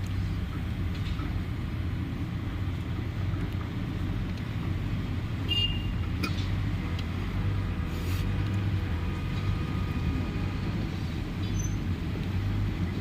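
Steady low hum of an idling car engine, with a short high electronic beep about halfway through and a few light clicks.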